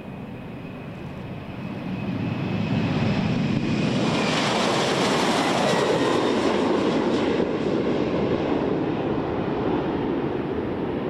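Boeing P-8I Poseidon's twin turbofan engines as the jet passes close. The engine noise swells over the first few seconds, peaks with a faint high whine, then drops in pitch as it goes by.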